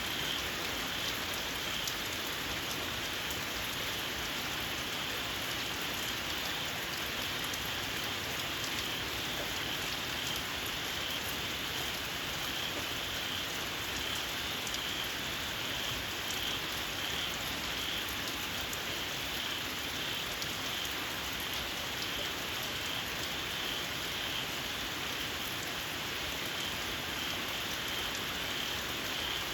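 Steady rain falling, with fine patter of drops, under a shrill high chorus of small frogs that pulses on evenly throughout.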